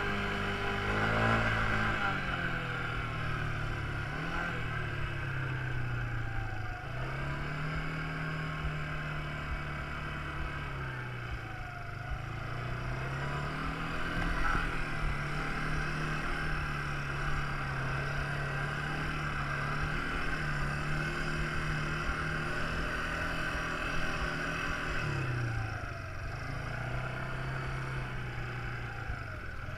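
Quad bike engine running, its pitch repeatedly rising and falling as the throttle is opened and eased off.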